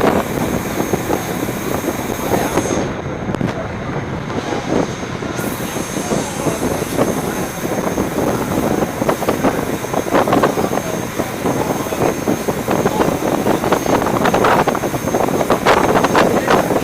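Boat's engine running steadily under way, mixed with wind rushing over the microphone.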